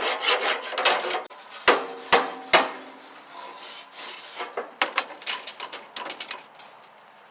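Scraper end of a wire grill brush scraping crusted grease and grime off a metal grill part, with a few sharp knocks about two seconds in and lighter scrapes and clicks after.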